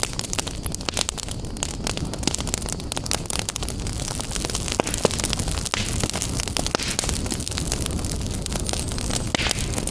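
Wood fire crackling in a fireplace: frequent sharp snaps and pops over a steady low rumble of burning.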